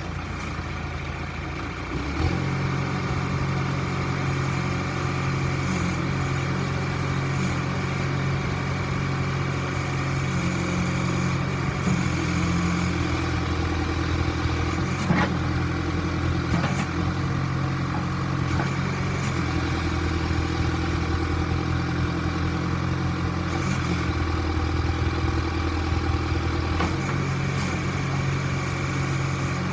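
John Deere 410D backhoe's diesel engine running steadily, picking up speed about two seconds in. A couple of short knocks sound about halfway through.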